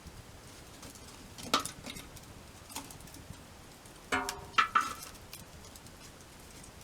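Campfire with a few sharp cracks and knocks over a faint steady hiss: a loud one about a second and a half in, and a cluster about four seconds in that starts with a brief ringing clink.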